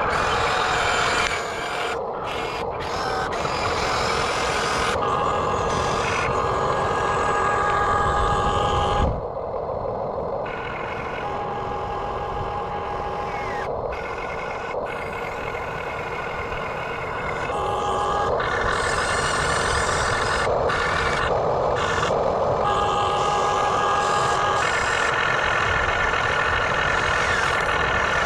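Electric motors of a radio-controlled backhoe excavator whining steadily. Higher whines switch on and off every few seconds as different functions are worked, with several abrupt breaks.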